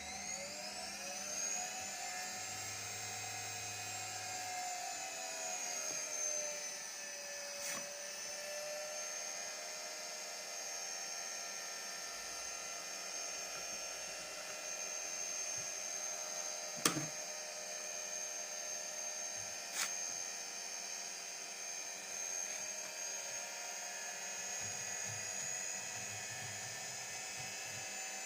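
Washing machine drum motor, a transplanted replacement, whining as the drum spins up for the spin cycle: the pitch rises over the first couple of seconds, sags a little, then holds steady at speed. A few short knocks sound in the middle.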